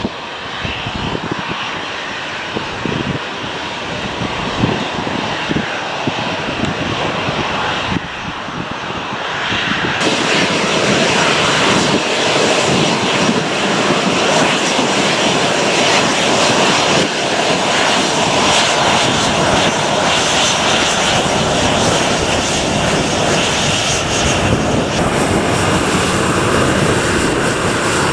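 Departing airplane's engines running at takeoff power, growing sharply louder about a third of the way in and then holding loud and steady.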